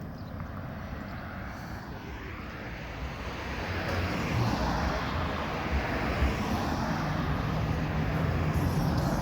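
Road traffic passing: a vehicle's rushing tyre and engine noise swells from a few seconds in, and a low engine hum grows near the end as another vehicle approaches.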